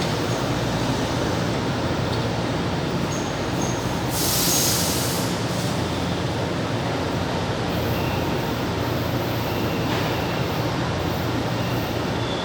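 Metro train running through an underground station: a steady rumble, with a burst of hiss lasting about a second, a little after four seconds in.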